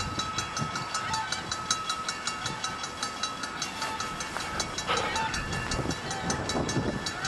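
Ex-Canadian National 0-6-0 steam locomotive running light on track, its low rumble building toward the end. Over it runs a steady rapid high ticking, about five a second, and a short falling call sounds about five seconds in.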